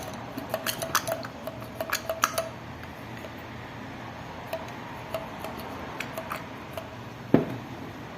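Light metallic clicks and clinks of an AC fan motor's metal parts being handled while its dry bushing is oiled. They come thick and fast for the first two and a half seconds, then only now and then, with one louder knock about seven seconds in.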